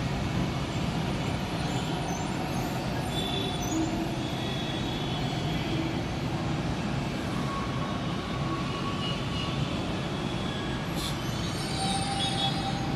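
Metro train running: a steady rumble with brief, thin high-pitched squeals coming and going.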